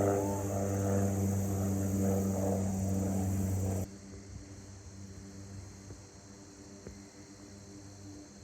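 Propeller airplane droning overhead, a steady low-pitched hum. About four seconds in it drops suddenly to a much fainter drone.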